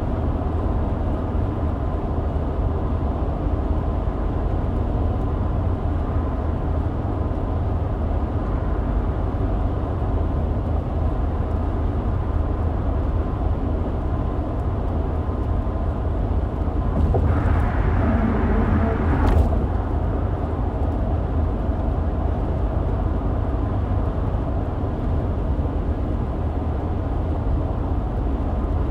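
Steady low rumble of a car on the road, heard from inside the cabin. About two-thirds of the way through, a louder rush of noise swells for roughly two seconds and ends in a short sharp click.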